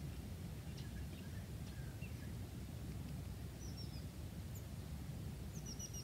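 Faint small-bird chirps over a steady low rumble of background noise. There are a few short calls in the first couple of seconds, then quick runs of high, falling chirps around four seconds in and again near the end.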